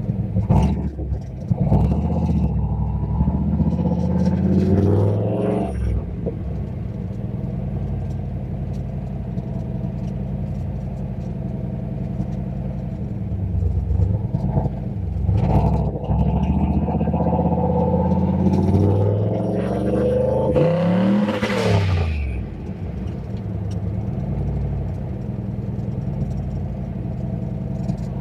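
Turbocharged 351 Windsor V8 in a Fox-body Mustang pulling hard twice, the engine note rising in pitch and then dropping as the throttle is lifted. Near the end of the second pull there is a loud burst of hiss as the revs fall. In between, it runs steadily at cruise.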